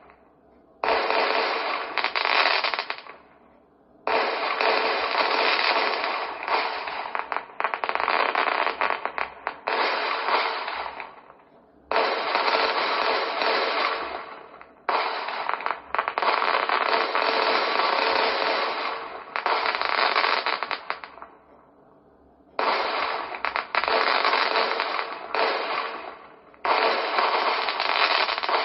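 Fireworks display: dense volleys of shell bursts and rapid crackling, in runs of a few seconds broken by brief lulls. The runs start suddenly and fade out before the next one.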